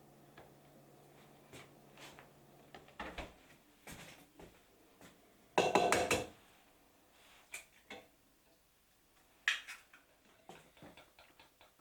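Kitchen dishes and cookware clattering: a series of knocks and clinks, the loudest a brief ringing clatter about six seconds in. A low steady hum stops about three seconds in.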